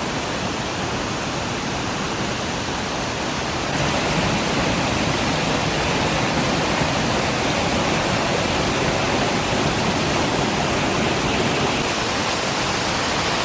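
Steady rushing water, an even hiss with no distinct splashes, that grows louder and brighter about four seconds in.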